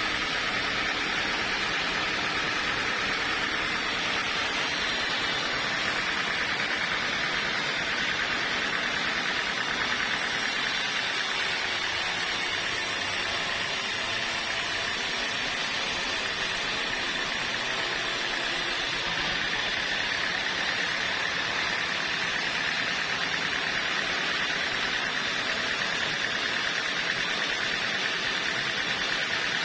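Sawmill machinery running steadily: a continuous, even mechanical noise with no breaks.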